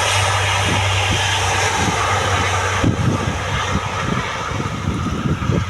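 Four-engine turboprops of a C-130 Hercules transport running loud: a steady low drone under a broad rushing sound. About halfway through the high rush fades and an uneven, fluttering low rumble takes over.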